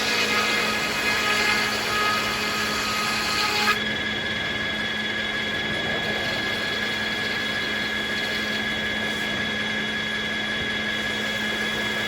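Circular sawmill running steadily, a constant hum with a high whine over it. A harsher hiss fills the first few seconds and cuts off with a click about four seconds in, after which the saw runs on evenly.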